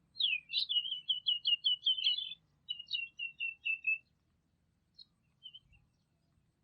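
A songbird singing: a quick run of about ten high repeated notes, a short pause, then a second run that falls slightly in pitch, followed by a few single chirps.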